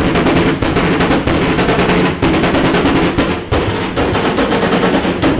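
Loud car exhaust with no muffler, only an open pipe, running hard with a rapid, irregular crackle of pops.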